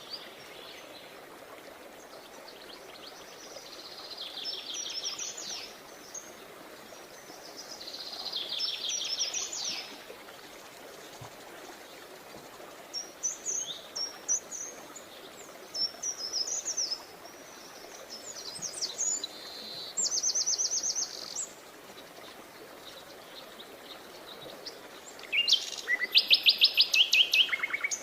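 Songbirds singing: short, high, rapidly trilled and chirping phrases every few seconds over a faint steady background hiss, with louder fast trills near the end.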